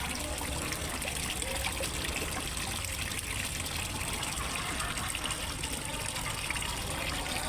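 Water trickling and splashing steadily into a fish pond from a small waterfall.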